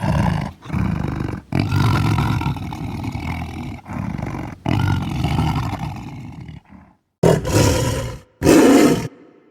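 Tiger roaring in a string of back-to-back roars, each cut off abruptly, with short silent gaps between them, the longest about seven seconds in.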